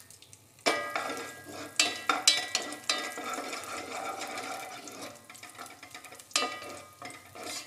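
Raisins frying in ghee in a heavy-bottomed pot, sizzling, with a few scraping strokes of a wooden spatula stirring them. The sound starts suddenly just under a second in.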